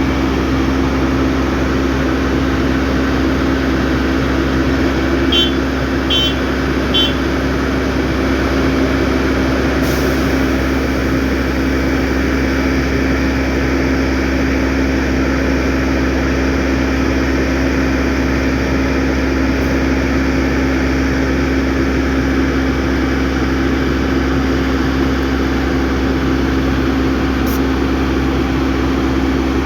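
Heavy road-construction machinery running steadily with a constant low engine hum. About five seconds in, three short high beeps sound in quick succession.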